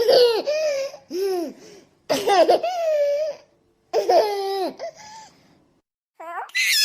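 A baby laughing in three bursts of giggles with short pauses between, then a brief higher-pitched squeal near the end.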